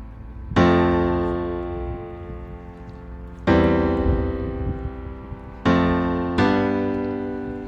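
Background piano music: slow, sustained chords struck four times, each left to fade.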